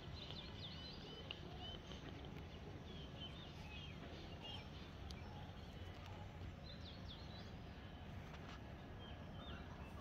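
Short, high chirps and twitters from small birds, coming in scattered clusters over a steady low background rumble.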